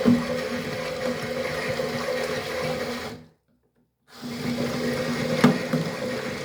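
Toy washing machine running, its small electric motor humming steadily. The sound cuts out completely for under a second a little past halfway, then starts again. There is a sharp knock at the start and another near the end.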